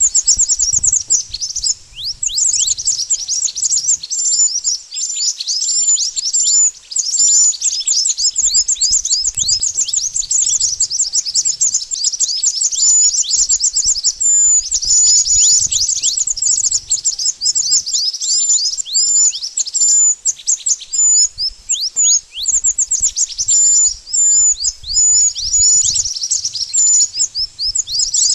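Mantenan birds calling, a dense, continuous chatter of quick high-pitched chirps that sweep downward, many overlapping, of the kind played as a lure for trapping the birds.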